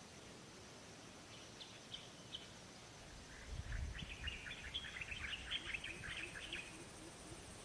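A small bird calling: a few short high chirps, then a quick chattering run of chirps lasting about three seconds, over a faint steady hiss. A brief low thump comes as the chattering begins.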